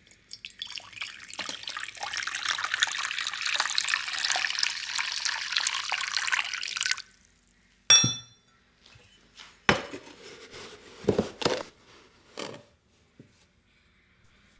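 Kitchen tap running into a sink for about seven seconds, then turned off. Then comes a single sharp, ringing clink, followed by a few knocks and clunks of things being handled.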